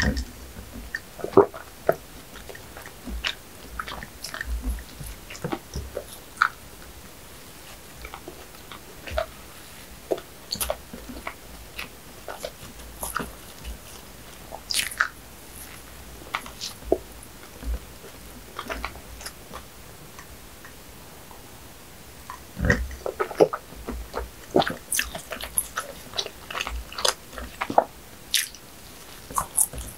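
Close-miked biting and chewing of bread: scattered wet mouth clicks and smacks, coming thicker and faster in the last quarter.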